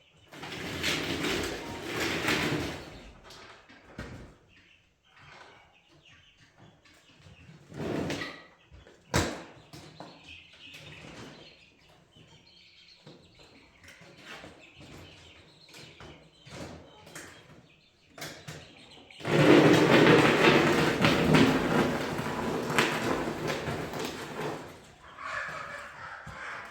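Young guinea fowl flapping and scuffling inside a wire cage as it is moved. There are bursts of wing-beating and rustling, a knock and a sharp click in between, and the longest, loudest flurry comes about two-thirds of the way in.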